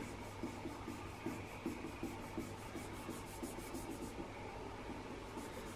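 Faint, quick back-and-forth rubbing of a hand over a car's painted panel. The strokes stop about four seconds in and resume briefly near the end. The rough, gritty rubbing is the sign of paint overspray on the unpolished surface.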